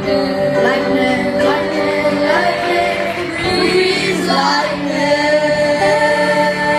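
Middle-school cast singing together over music, the voices sliding between notes midway and then holding a long, steady final chord.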